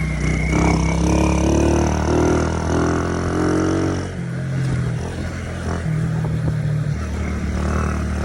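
Motorbike engine running under way while riding. The engine note eases off briefly about four seconds in, then picks up again.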